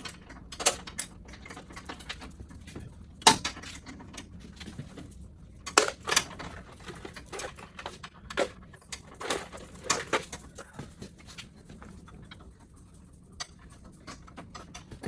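Scattered clinks and knocks of small hardware and tools being handled, loudest about three seconds in and again around six seconds in, thinning out near the end.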